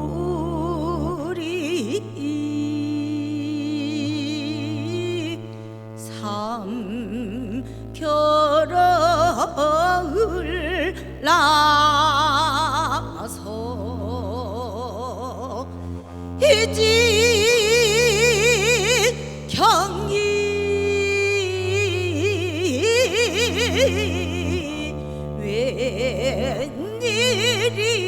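Korean traditional fusion music from a gugak ensemble: a melody with wide, wavering vibrato over sustained low chords that change every few seconds.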